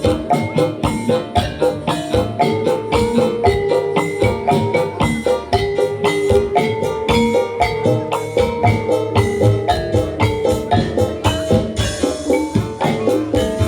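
Live jaranan dangdut band music without singing: a fast, even drum beat under a bright melody on struck metal or mallet keys.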